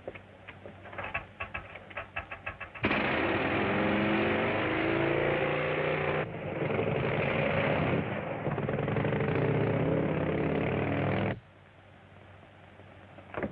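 Train sound effect from an old film soundtrack: a rapid run of quickening clicks, then a loud rushing rumble of a train running at speed that stops abruptly.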